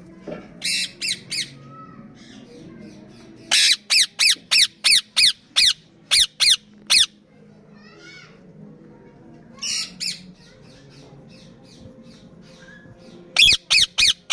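Indian ringneck parakeets squawking: short, shrill screeches in quick runs, three near the start, about ten in a row through the middle, and four near the end.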